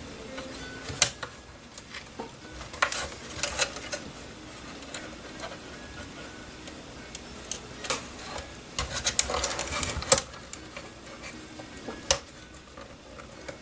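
Small clicks and short scrapes of hand tools working small cable connectors inside a drone body. They come in scattered bursts, busiest about three seconds in and again around nine to ten seconds.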